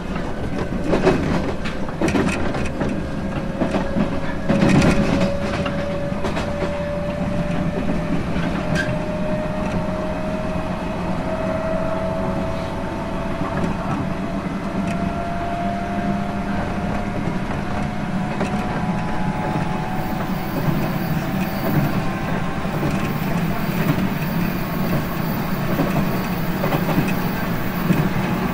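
Running noise inside a JR 719-series electric multiple unit, heard from the cabin. A few wheel clicks over rail joints in the first seconds, and a motor whine that rises slowly in pitch as the train picks up speed.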